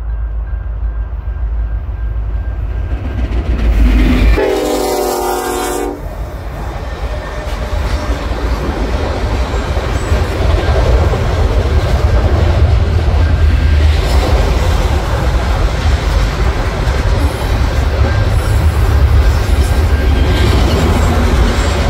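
A freight train's horn sounds one blast of about a second and a half as the train reaches the crossing, then the freight cars roll past with a steady low rumble of wheels on rail.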